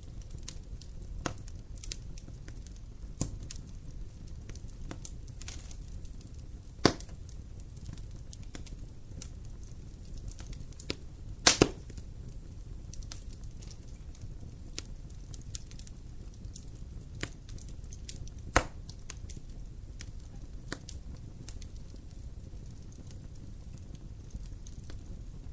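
Wood fire burning in a fireplace: a steady low rumble with scattered crackles and several sharp pops, the loudest cluster near the middle.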